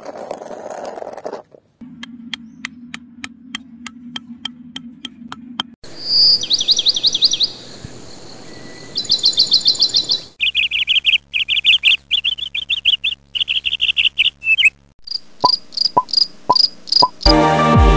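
Spliced-in bird and insect sound clips that change abruptly every few seconds: first an even clicking with a low hum, then bird trills and chirps, then a fast run of high chirping, then short rhythmic chirps.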